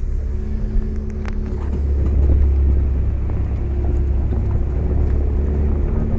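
Mitsubishi Lancer driving, with a steady low engine and road rumble. The rear suspension's knocking is absent: the worn rear stabilizer-bar bushings have just been replaced.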